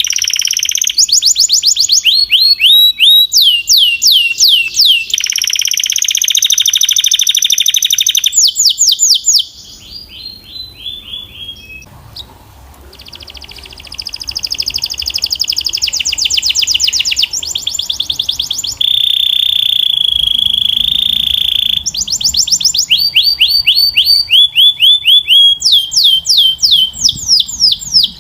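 Domestic canary singing: fast trills of rapidly repeated falling notes and held whistles, the phrases changing every second or two, with a quieter, softer passage about ten seconds in.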